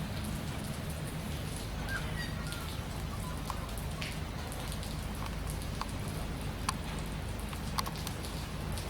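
Rain falling, with scattered drops ticking over a steady low hum. A couple of short high chirps come about two seconds in.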